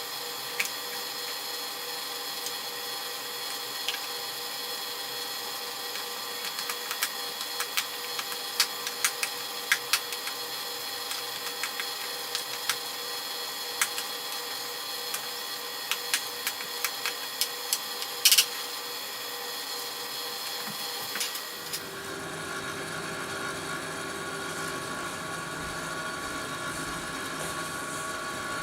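A steady machine-like hum made of several fixed tones, with scattered small clicks and taps and one louder knock. About two-thirds of the way through, the hum shifts to a different, lower set of tones.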